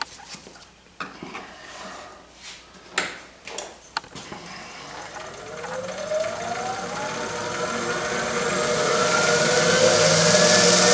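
A few light knocks and clicks of handling at the lathe, then the woodturning lathe's motor spinning up: a whine that rises steadily in pitch while the running noise grows louder, as the lathe is brought up to speed for friction polishing.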